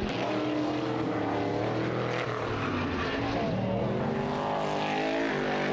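Several racing vehicle engines running hard at once, their pitch rising and falling as they rev.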